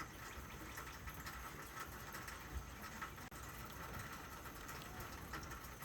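Faint rain pattering, an even hiss with scattered light ticks.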